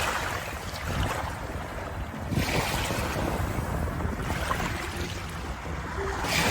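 Ocean waves washing in, a steady rush of water that swells and eases every two seconds or so.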